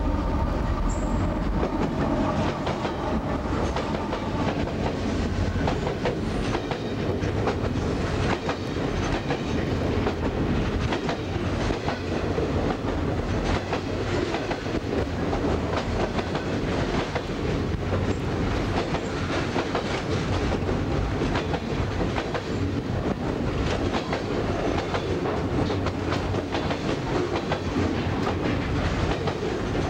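CSX freight train passing close by: the diesel locomotives go by in the first couple of seconds with a steady pitched drone that fades, then a long string of loaded flatcars rolls past with a continuous clickety-clack of wheels over the rail joints.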